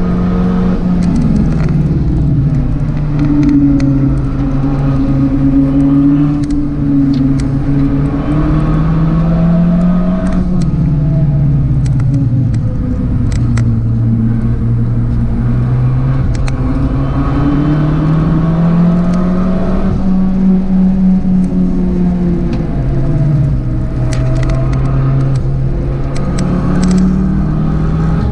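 Turbocharged Abarth 595 four-cylinder engine driven hard, its pitch climbing for several seconds and then dropping, again and again, as it accelerates and eases off. Scattered sharp crackles sound over it.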